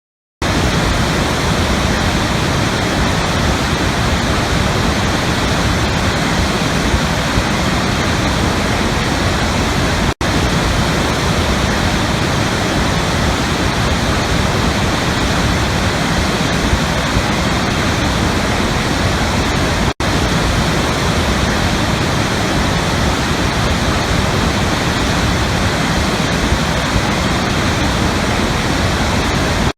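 Waterfall rushing: a loud, steady roar of falling water. It cuts out for an instant twice, about ten and twenty seconds in.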